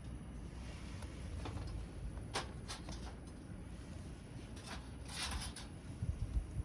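Wood campfire crackling, with a few sharp pops and a short cluster of crackles about five seconds in, over a steady low rumble; a couple of low thumps near the end.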